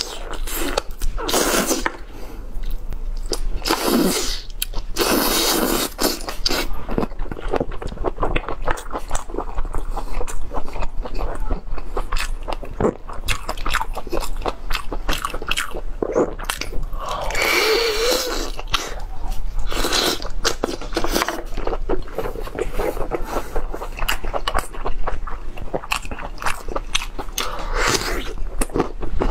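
Close-miked eating of boiled lamb ribs: biting and chewing meat off the bone, heard as many small irregular wet clicks. A few longer noisy stretches come about five and eighteen seconds in.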